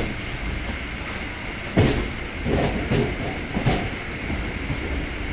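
Chennai suburban electric multiple-unit (EMU) train, heard from on board: a steady rumble with a sharp knock about two seconds in and a few lighter knocks after it.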